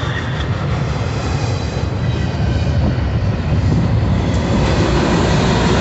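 Double-stack intermodal freight train passing, a steady rumble of wheels on rail with the deepest part of the sound heaviest. It grows a little louder in the second half.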